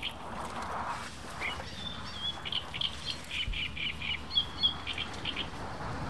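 Small birds chirping: many short, high notes repeated in quick clusters, over a steady low rumble of wind on the microphone.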